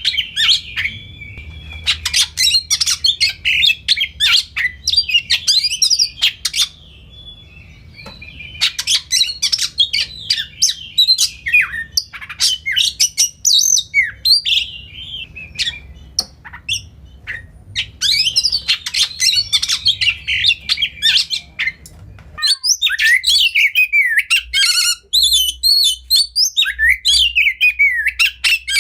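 Oriental magpie-robin (kacer) singing a fast, varied song of whistles, chirps and harsh clicking notes, in bursts with short pauses. A steady low hum underneath cuts out about three-quarters of the way through.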